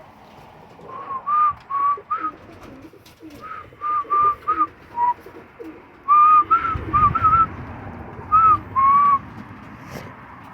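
Pigeons in a loft: a run of short, high peeps in quick groups, each rising then falling in pitch, over faint low cooing.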